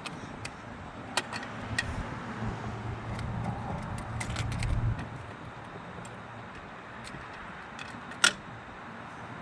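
Light clicks and knocks of toy cars and monster trucks being handled and set in place on a plastic slide, with one sharp click near the end. A low rumble runs through the first half.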